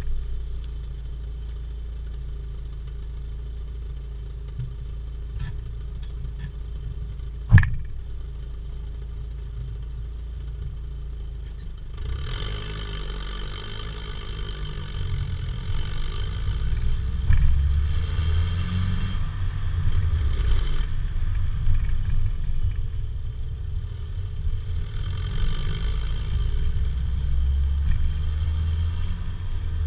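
Opel Vectra B's 1.8-litre X18XE1 four-cylinder exhaust through an aftermarket Novus rear silencer: a steady low idle rumble, with one sharp knock about seven and a half seconds in. About twelve seconds in it turns louder, the engine note rising and falling as the revs change.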